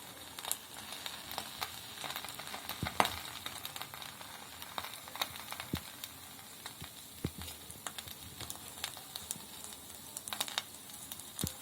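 Egg frying in oil in a pan under a layer of sliced onion, tomato and cabbage: a steady sizzle with scattered crackles and pops.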